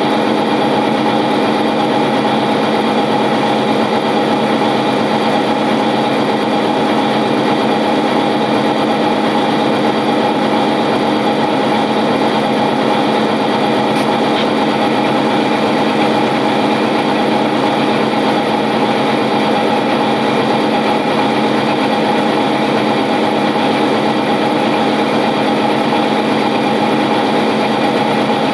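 Model train locomotive running past, a steady mechanical drone with a constant pitch that does not change.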